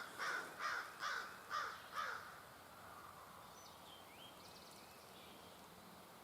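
A bird calling a series of six harsh notes, a little over two a second, ending about two seconds in, then faint high chirps of small songbirds.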